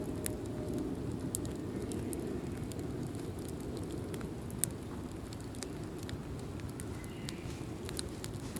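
Fire of fallen leaves crackling: scattered sharp pops and snaps over a steady low rumble, with one louder pop about halfway through.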